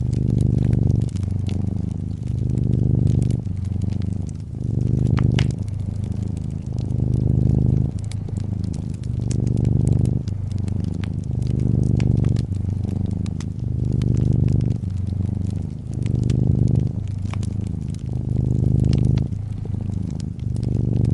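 A domestic cat purring in slow swells about every two seconds as it breathes in and out. Fireplace crackling sounds over it as scattered sharp pops and snaps.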